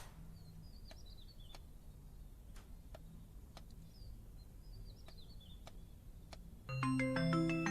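Faint morning birdsong, two short chirping phrases, with light scattered ticks. Near the end a bright marimba-like melody of quick notes starts up.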